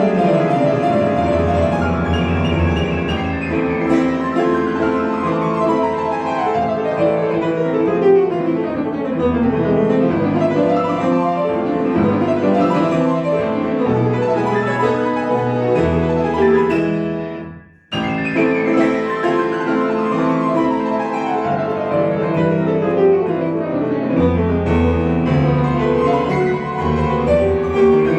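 Solo piano playing a fast, loud Romantic passage: cascades of notes running down from high in the keyboard over several seconds above a heavy bass. About two thirds of the way through the sound cuts out abruptly, then the same falling passage starts over.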